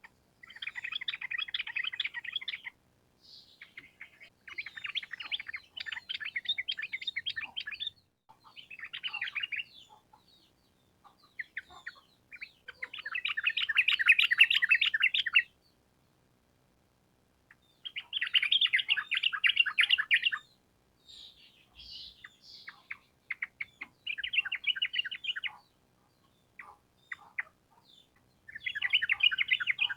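Yellow-vented bulbul (trucukan) singing in bursts of fast chattering notes, each about one to three seconds long, with short pauses between. The loudest and longest burst comes about halfway through.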